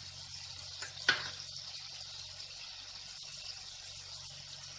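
Onion, garlic and ginger pastes frying in butter in an aluminium kadai: a steady, gentle sizzle, with one sharp tap about a second in.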